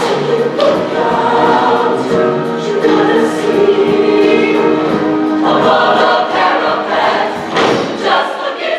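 Music with a choir singing held chords.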